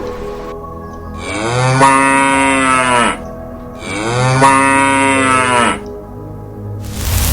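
An animal calling twice: two long, drawn-out calls of about two seconds each, rising in pitch and then falling away. A loud hiss starts just before the end.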